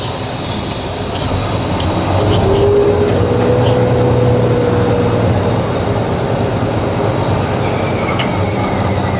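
Semi truck's diesel engine running with a steady low rumble and a constant high hiss, and a brief squeal of a couple of seconds about three seconds in.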